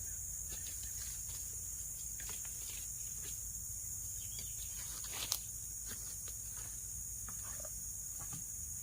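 Forest insects (crickets or cicadas) keeping up a steady high-pitched drone over a low rumble, with scattered faint clicks and one sharp click about five seconds in.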